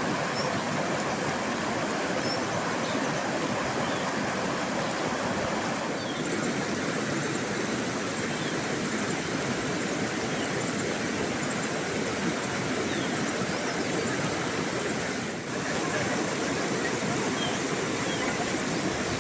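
Steady rush of flowing water, like a stream or small waterfall, with a few faint high chirps over it. The sound dips briefly about fifteen seconds in.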